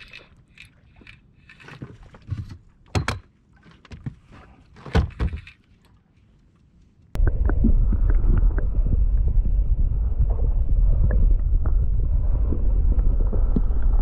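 A few scattered knocks and clicks, then about halfway through a loud, steady, low rumble starts suddenly: the noise of the inflatable boat moving through the water, with wind and water rushing past.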